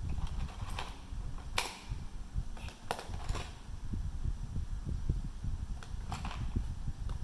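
Irregular light clicks and taps of small hand tools and parts being handled on a phone during an iPhone 7 battery replacement, about seven sharp ticks spread unevenly over a low, dull rumble of handling noise.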